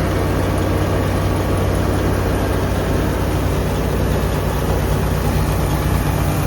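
Engine of a harvesting machine running steadily, with an even, deep hum.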